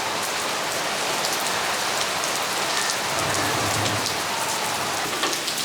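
Steady monsoon rain falling, with many separate drops ticking on surfaces.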